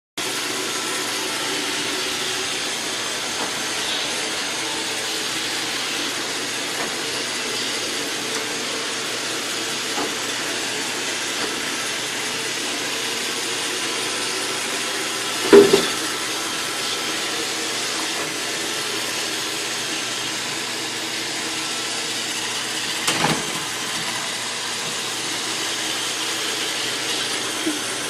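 Roomba robot vacuum running with a steady motor whir. Two short knocks cut through it, a loud one about halfway through and a softer one later.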